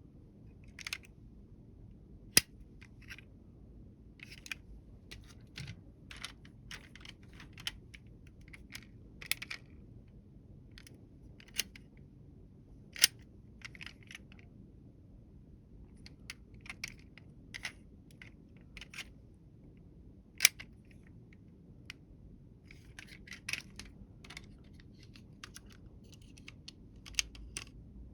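Small hard toy vehicles being handled and set down: scattered light clicks and taps, with a few sharper clicks standing out.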